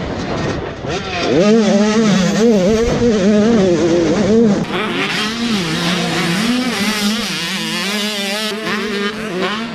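Motocross dirt bike engines revving on the track, their pitch climbing sharply about a second in, then rising and falling again and again as the throttle is worked.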